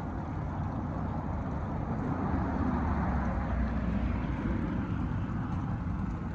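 Steady rumble of a moving vehicle's engine and tyres on the road, swelling a little about two to three seconds in.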